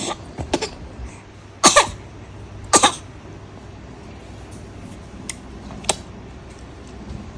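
A baby making two short cough-like sounds about a second apart.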